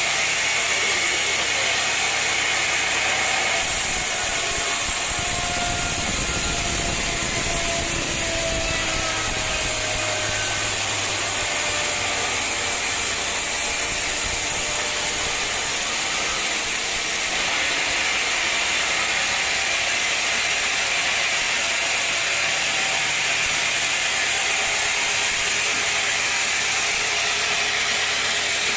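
Sawmill machinery running with a steady, loud mechanical noise, with a low rumble that comes in about four seconds in and fades out around the middle.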